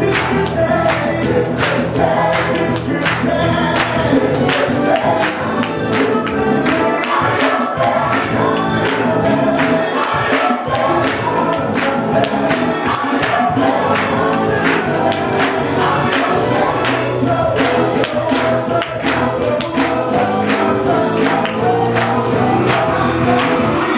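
Gospel choir singing over a live church band, with percussion keeping a steady beat.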